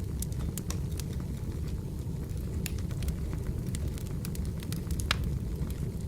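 Wood fire burning: a steady low rumble of flames with frequent sharp crackles and pops from the firewood, one louder pop about five seconds in.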